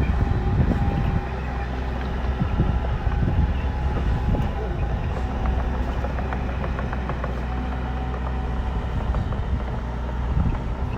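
Bulldozer's diesel engine running steadily, with scattered clanks and knocks.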